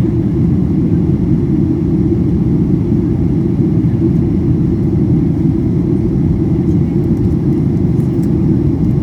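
Steady low rumble of a Boeing 737-800's cabin noise from a passenger seat: the engines and airflow at an even, unchanging level.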